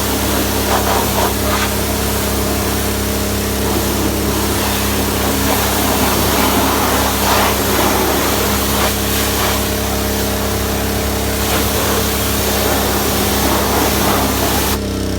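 Small-engine pressure washer running steadily while its wand sprays water in a loud, even hiss. Near the end the spray stops and only the engine keeps running.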